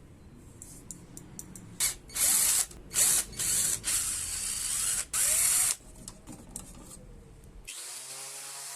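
A power tool run in several short bursts of a second or less each, with a hissing sound.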